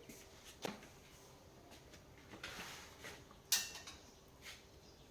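A few faint clicks and light knocks of small hard objects being handled, the sharpest a crisp click about three and a half seconds in.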